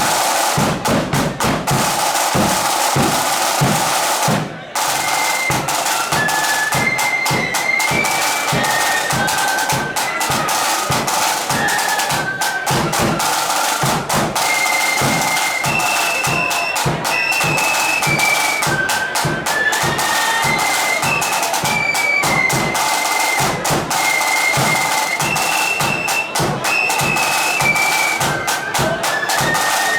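Flute band playing: snare drums and a bass drum beat a fast, steady rhythm. After a brief break about four and a half seconds in, the flutes come in with the melody over the drums.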